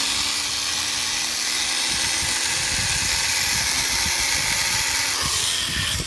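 Wind buffeting the microphone, a steady loud hiss with irregular low rumble. Under it is the faint, slightly sagging whir of a tiny Air Hogs E-Charger toy plane's electric motor and propeller. It drops off suddenly near the end.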